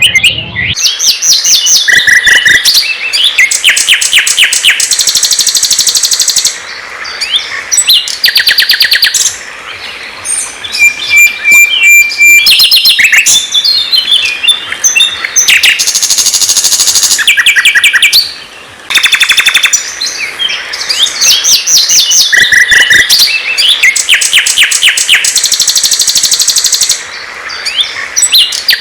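Loud, varied songbird song: fast runs of repeated notes and rattling trills in phrases a few seconds long, broken by short pauses.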